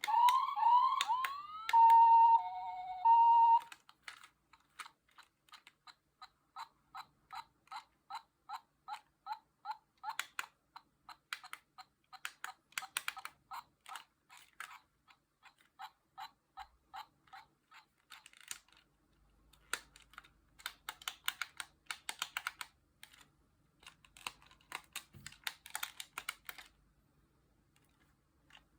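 Toy fire station's electronic siren sweeps, falling in pitch, and a short beeping tune from its small speaker, followed by a long run of evenly spaced clicks, about two or three a second, that become quicker and sharper in the second half.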